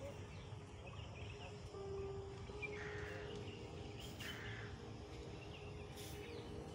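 Garden ambience: faint birds chirping over a steady low background rumble, with a couple of short clicks near the middle and end.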